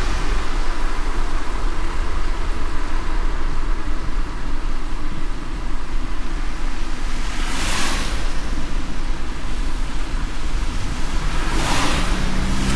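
Car driving on a wet road in light rain: a steady low road rumble under an even rain-and-tyre hiss, with two brief whooshes about 8 and 12 seconds in.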